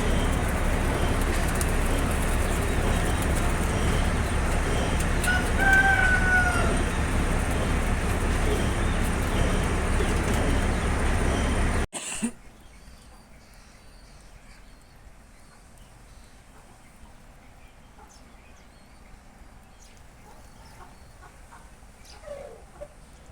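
A rooster crowing once, a single arching call about six seconds in, over heavy wind rumble on the microphone. After a sudden cut about halfway through it goes much quieter, with faint clicks and a short call near the end.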